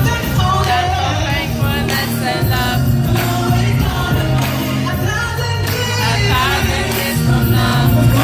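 Gospel music: a choir singing over a band with a strong, steady bass line.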